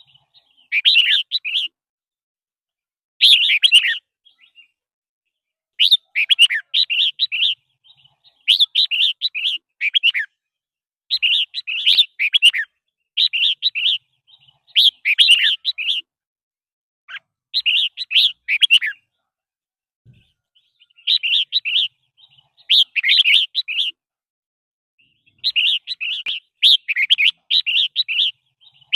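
Red-whiskered bulbul singing: bright, quick phrases of one to two seconds, repeated over and over with short pauses between them.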